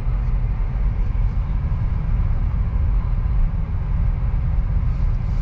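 2023 Acura Integra's turbocharged four-cylinder engine and tyres giving a steady low rumble as the car rolls slowly in second gear.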